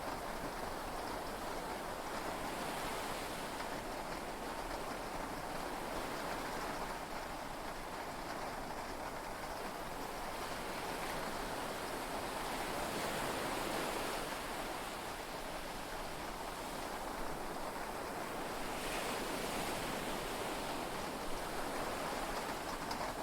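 Sea waves and rain heard from inside a yacht's cabin, a steady wash of noise that swells and eases gently.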